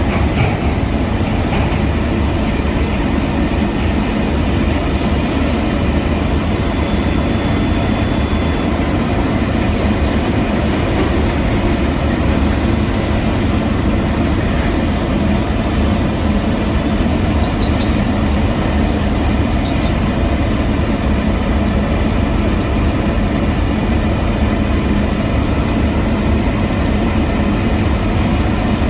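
Heavy diesel construction machinery running steadily under load, a continuous low engine drone at a constant level.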